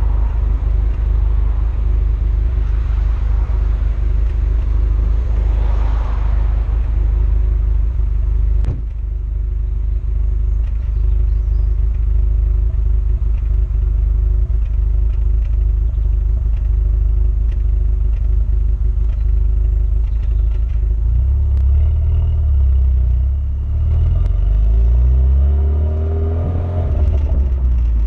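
Renault Mégane R26 230's 2.0-litre turbocharged four-cylinder petrol engine idling, with a sharp knock and a brief dip about nine seconds in. The engine is revved up and down a few times near the end. It has the intermittent 'Mégane cough', which the owner puts down to an injector fault or misfire, and which remained after the injectors were changed.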